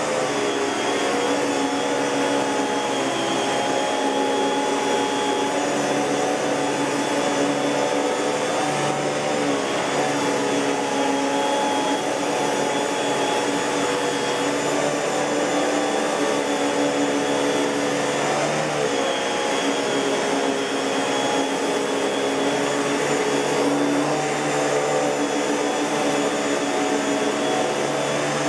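Miele S658 Blue Moon canister vacuum cleaner running steadily with a motor hum and airflow whoosh. Its pitch wavers briefly twice.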